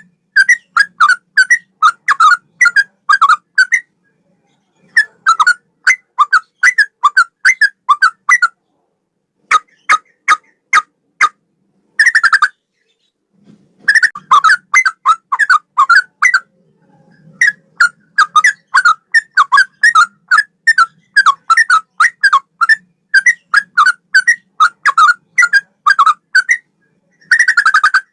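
Yellow-vented bulbul (trucukan) singing in fast, bubbly phrases of short repeated notes, with brief pauses between phrases, in a song style modelled on the straw-headed bulbul (cucak rowo). About ten seconds in it gives a run of sharp, clipped single notes.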